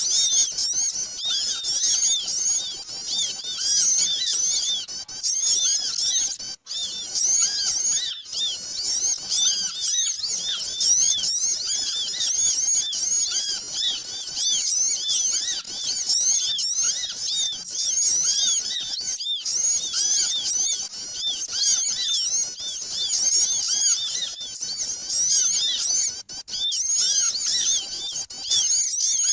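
Many small birds chirping at once, a busy, continuous chorus of rapid, overlapping high-pitched chirps, as used in a bird-lure recording to draw in small birds. The sound breaks off twice for a moment.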